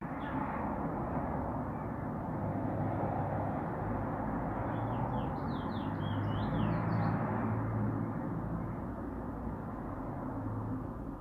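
A small bird gives a short burst of quick chirps in the middle, a handful of rising and falling notes. Under it runs a steady low rumble of background noise.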